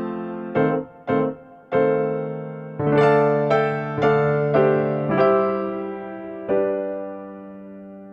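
Background piano music: a melody of single struck notes that ends on a held chord, fading away near the end.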